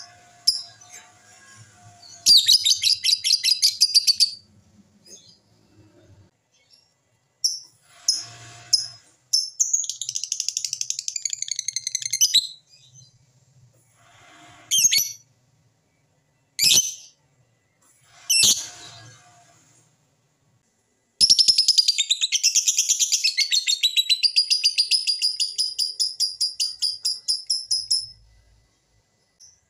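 A bird singing in high, rapid trills of repeated notes, in several bouts. The longest bout runs through the last third, and three short sweeping calls fall in the middle.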